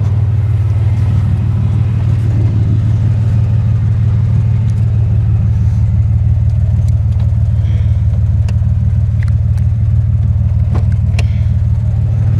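1991 Ford Explorer's 4.0 L V6 running steadily, its exhaust loud through a muffler with a hole rusted in it; the engine is missing on one cylinder. A few faint clicks near the end.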